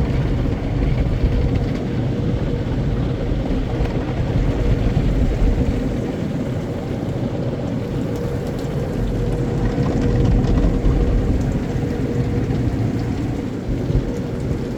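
Automatic car wash machinery running around the car, heard from inside the cabin: a steady low rumble with a constant mid-pitched hum.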